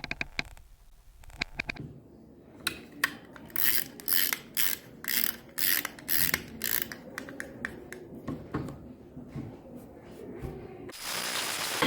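A run of sharp mechanical clicks and rattles, about two to three a second, thinning to lighter ticks, then a burst of hiss near the end.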